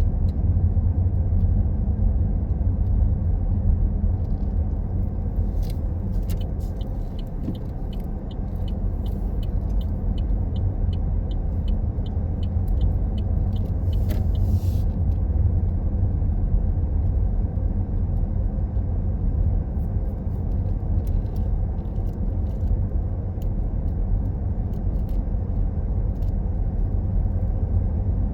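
Car interior: steady low road and engine rumble while driving. For several seconds in the middle, a faint regular ticking about three times a second.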